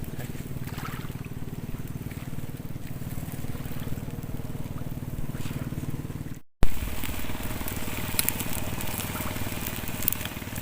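An engine running steadily with a low hum. After a sudden cut about six seconds in, scattered sharp crackles and clicks take over.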